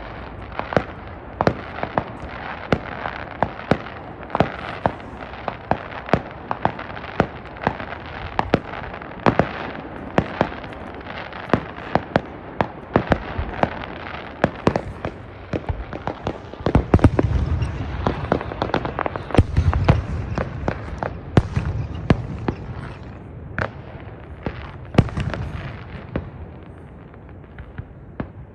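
Fireworks going off in quick succession: a dense run of sharp bangs and crackles, with deeper booms joining a little past halfway.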